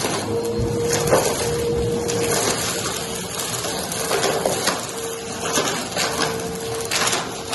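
Vacuum cleaner running on carpet: a steady motor whine that dips briefly now and then, with scattered crackles and ticks as grit is drawn up.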